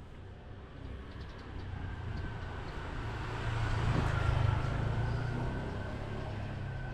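A motor vehicle driving past on a narrow street: its engine and tyre noise grow louder to a peak about four seconds in, then fade away slowly.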